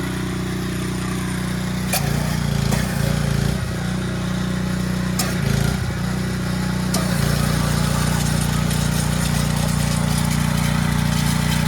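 Pressure washer running steadily while flushing sludge out of the cylinder head's clogged coolant passages. Its hum shifts about two seconds in and again about seven seconds in, with a few sharp clicks.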